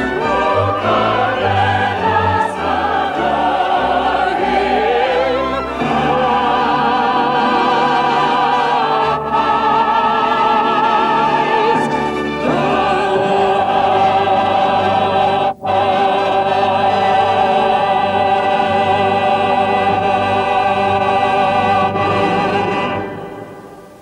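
Operatic singing with a strong vibrato over an orchestra and choir, long held notes near the close, the music dying away just before the end.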